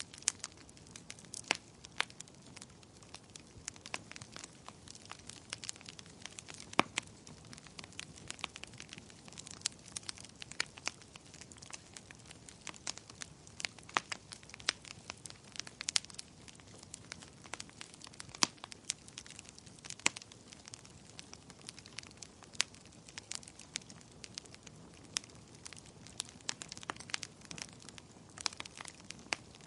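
Wood fire crackling steadily: many sharp pops and snaps at irregular intervals over a low hiss of burning.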